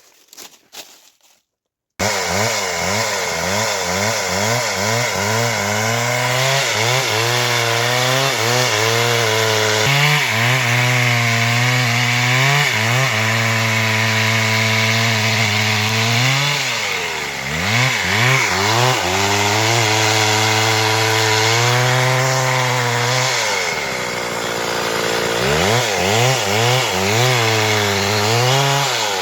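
Stihl MS 382 two-stroke chainsaw at high revs cutting through wood, its pitch wavering as the chain bogs and recovers in the cut, with two clear drops and climbs in revs about halfway and three-quarters of the way through. It starts abruptly about two seconds in, after faint voices.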